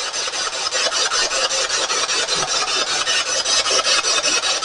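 Spirit box scanning through radio stations: steady static chopped into rapid, even pulses, about eight a second.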